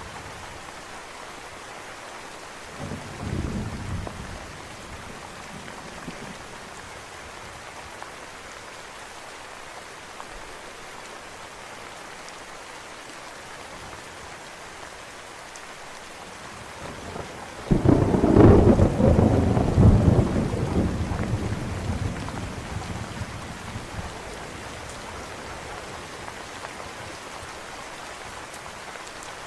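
Steady rain falling throughout, with a brief low roll of thunder about three seconds in and a loud thunderclap a little past the middle that starts suddenly and rumbles away over several seconds.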